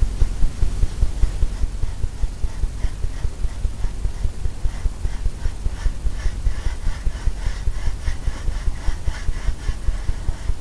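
Paintbrush working oil paint on a canvas, stroking and dabbing in a steady rhythm of a few strokes a second, each with a low thump from the canvas.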